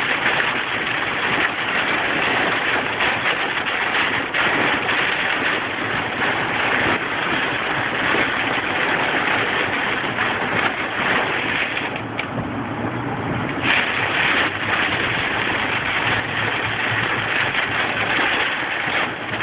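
Hail and rain pelting hard and steadily, a dense clatter of small ice impacts that eases briefly about twelve seconds in before picking up again.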